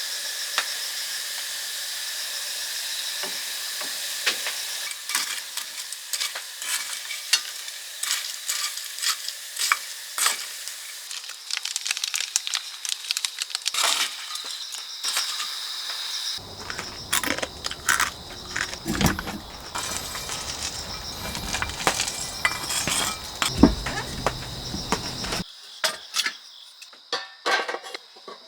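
Food sizzling and crackling as it cooks: a steady hiss with many quick pops and ticks. A deeper rumble joins for about nine seconds in the middle, then cuts off suddenly.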